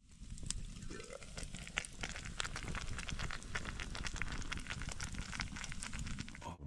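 Campfire crackling, with many small sharp pops over a low steady rumble.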